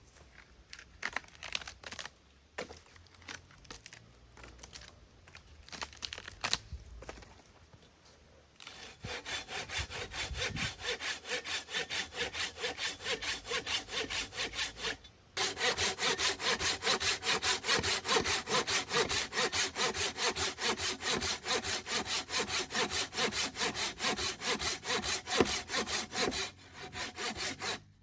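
Hand saw cutting through wood in steady, even back-and-forth strokes, after a few scattered light knocks. The sawing stops briefly about halfway, then starts again louder and stops near the end.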